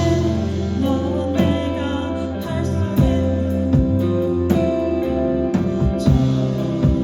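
A band playing live: guitar and bass notes held over regular drum hits, possibly with a voice singing.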